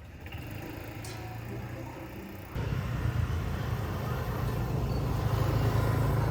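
A motor vehicle's engine running steadily amid outdoor noise, with a low hum. It jumps louder suddenly about two and a half seconds in.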